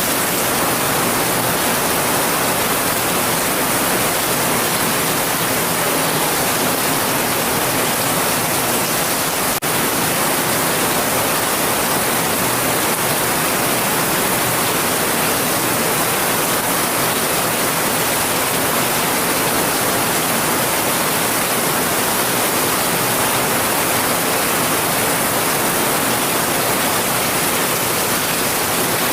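Heavy rain falling steadily, an even hiss with no single drops standing out, and a momentary dip about ten seconds in.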